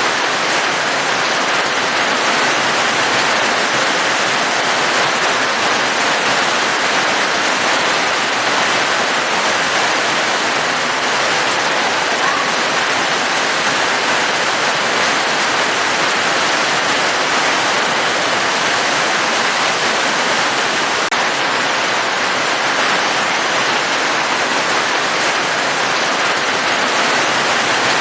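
Steady, even rain: a dense, unbroken hiss of falling water with no changes in level.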